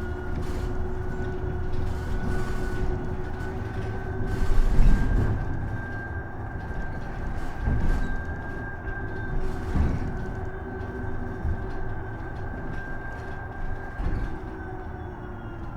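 Isuzu Erga EV electric bus running, heard from inside: the electric drive's steady whine over low road rumble, with several thumps from bumps, the loudest about five seconds in. Near the end the whine drops in pitch.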